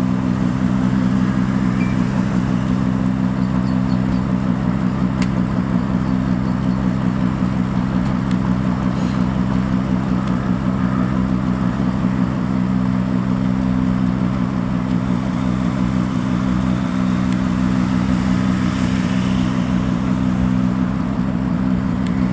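Steady low drone of a diesel engine running at an even pace, from the Class 43 power cars of a Great Western Railway Castle Class HST.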